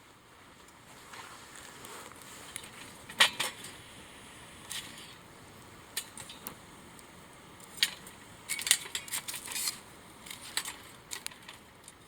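Wood burning in a small stainless-steel wood stove, crackling and popping irregularly over a soft background hiss, with a quick run of pops past the middle.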